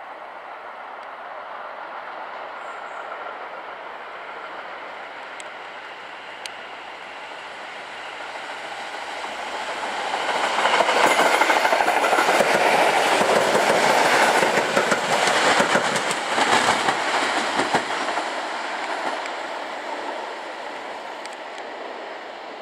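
EN57 electric multiple unit passing: the noise of its wheels on the rails builds over the first half, is loudest with rapid clickety-clack over rail joints as the cars go by, then fades as the train pulls away.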